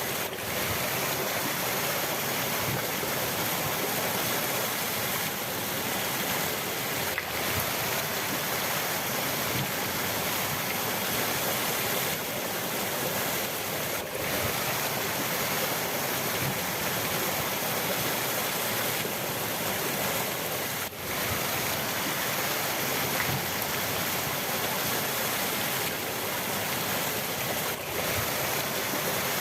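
River water rushing steadily in a continuous, even wash, with a brief dip in level about every seven seconds.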